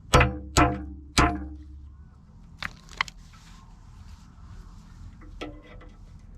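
Three hard hammer blows on a steel tooth pin, about half a second apart, each ringing briefly, followed by a few lighter metal taps. The pin is being driven into a pin-on excavator bucket tooth and its adapter.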